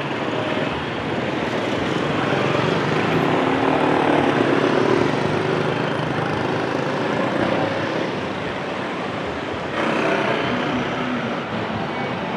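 Street traffic dominated by passing motorcycles and scooters, a steady engine din with one engine swelling louder a couple of seconds in and another arriving near the end.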